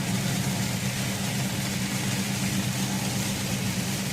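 Truck engine running steadily, a constant low hum under an even background rush.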